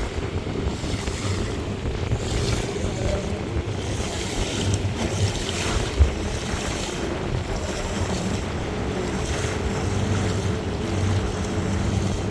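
Steady rushing roar of a large waterfall, with gusts of wind buffeting the microphone. One brief thump about halfway through.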